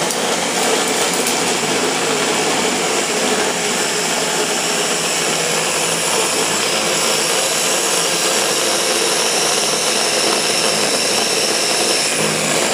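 Ninja blender motor running steadily at full speed with the button held down, blending mint chip ice cream into a thick milkshake-like Blizzard.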